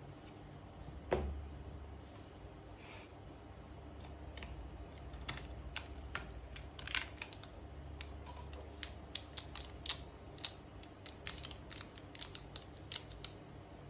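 A single knock about a second in, then a run of small sharp clicks and taps, irregular and several a second at times, from a smartphone and small repair tools being handled during disassembly. A low hum runs underneath.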